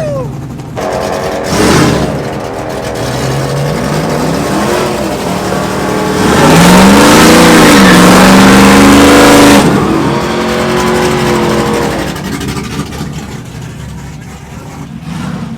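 A car engine revving hard and accelerating, its pitch climbing from about four seconds in and loudest from about six and a half to nine and a half seconds in, then fading as it pulls away.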